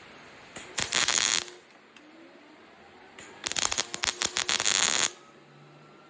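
Arc welder tack-welding thin spoon and fork steel: two bursts of arc crackle, the first about half a second long, the second nearly two seconds.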